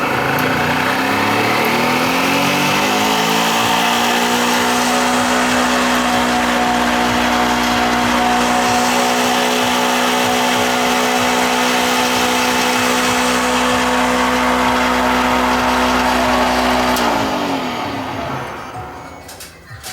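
Homemade grass chopper driven by a 200-watt used washing-machine motor, spinning up with a rising whine over the first few seconds, running at steady speed, then switched off about 17 seconds in and winding down. The slow spin-up is typical of the washing-machine motor.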